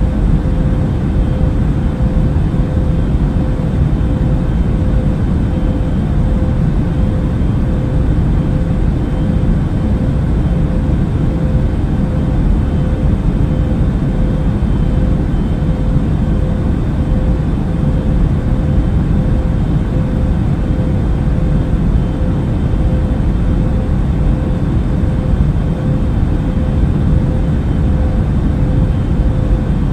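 Steady airplane cabin noise in flight: a deep, unchanging rumble of engines and airflow with a constant tone running through it.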